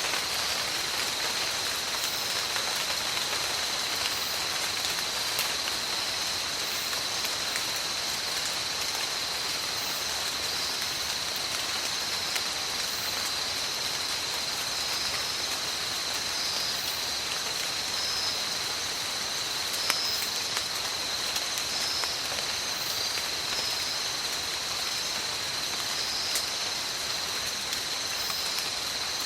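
Steady heavy rain falling in a tropical forest: a dense, even patter with scattered sharper drop ticks, over a continuous high-pitched tone.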